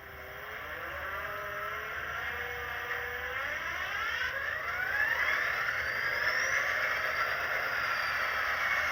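Soundtraxx Tsunami sound decoder in a Walthers Proto SD45 model locomotive playing its diesel engine start-up through the model's speaker: the engine sound builds up, its pitch rising steadily for several seconds, then settles into a steady idle.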